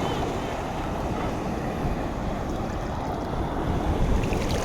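Black Sea surf washing onto the shore, with wind buffeting the microphone in a steady low rumble.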